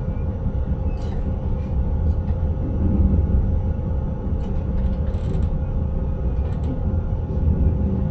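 Intercity train running on the line, heard in the driver's cab: a steady low rumble from the wheels and track with a constant hum, and a few faint clicks.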